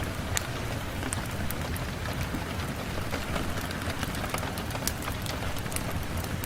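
Steady rain on a window, a constant patter with scattered sharp ticks of single drops.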